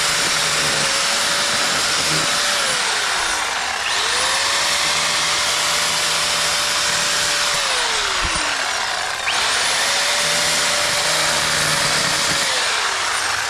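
Power grinder cutting out brick mortar joints, running loud and steady. Its motor pitch sinks slowly under load and then snaps back up, twice, and sinks again near the end.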